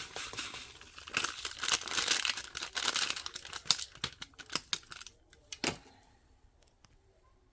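Jelly powder packets being crinkled and torn open: a dense crackling for about five seconds, ending in a few sharp clicks.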